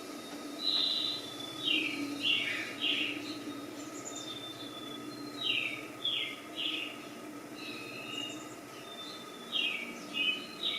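A bird calling in clusters of short, quick, descending chirps a few seconds apart, over a faint steady hum.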